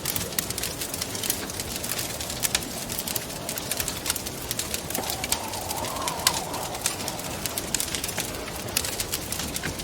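Wood fire crackling with many sharp pops over a steady hollow wind. About halfway through, a gust rises in pitch and falls back.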